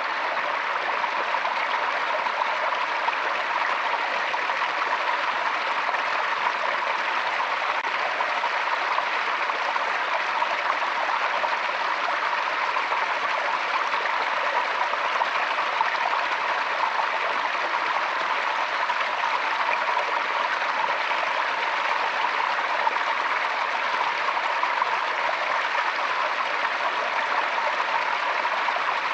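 Forest stream running steadily: an even, continuous rush of flowing water.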